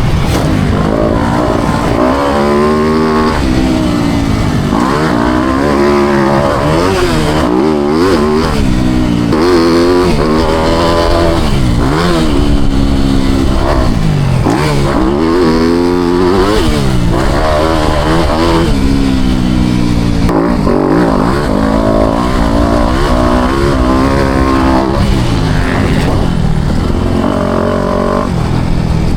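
Four-stroke motocross bike engine riding a track, its pitch rising hard and dropping again over and over every couple of seconds as the throttle is opened and shut through the corners and jumps.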